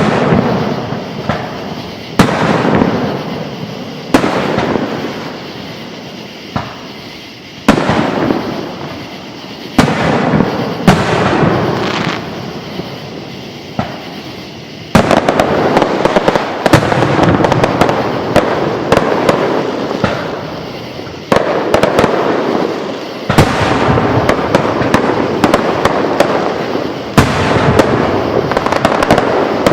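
Aerial fireworks going off in a run of sharp bangs and booms, with crackling and echoing tails after each burst. The bursts come every second or two at first and become a near-continuous barrage from about halfway through.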